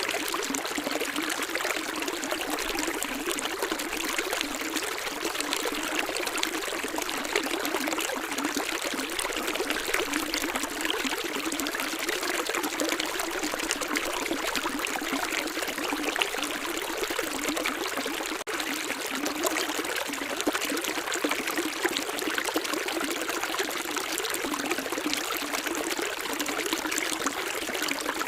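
Running water flowing steadily with a bubbling, trickling sound.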